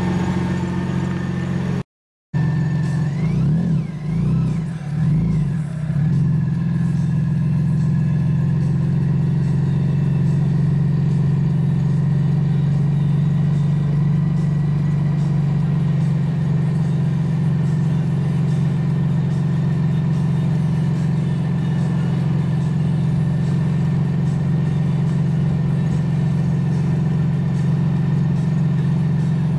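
Campagna T-Rex 16SP's BMW inline-six engine, revving up and down a few times just after a brief break in the sound, then idling steadily.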